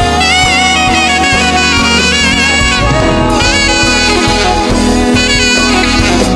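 Saxophone playing a sliding, bending melody line over a live gospel band's keyboard and drums.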